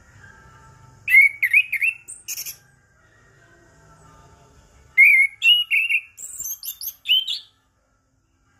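Chestnut-capped thrush (anis kembang) singing in two bursts of quick, varied whistled phrases, one about a second in and one about five seconds in, with a short gap between them.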